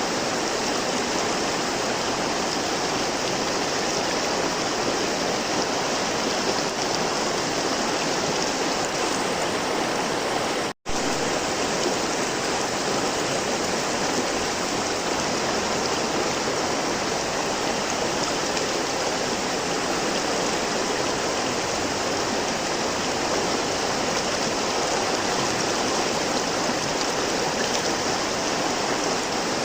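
River water flowing, a steady rushing of running water. It cuts out for an instant about eleven seconds in, then resumes as before.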